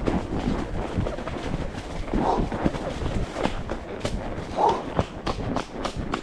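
Horse's hooves striking the ground in a steady run of thuds as it is ridden, with a short, curving sound that recurs about every two and a half seconds.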